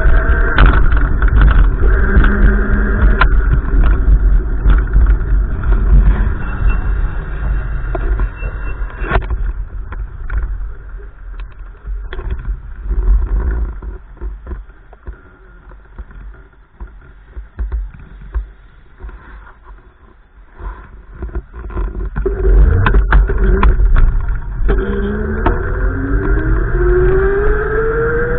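Motor vehicle noise with a heavy low rumble that fades away in the middle and comes back. Near the end an engine accelerates, its pitch rising steadily.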